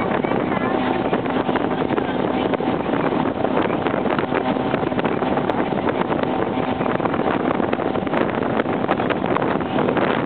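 Motorboat engine running steadily under way, with a constant rush of noise and a faint steady hum.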